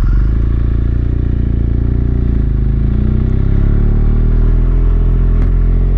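BMW R1200GS Adventure's boxer-twin engine running as the motorcycle rides off, its note shifting with the revs about halfway through.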